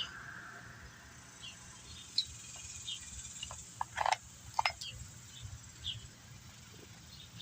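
Two sharp metal clinks about midway as the chainsaw chain and bar are handled, over faint short high chirps repeating every second or so.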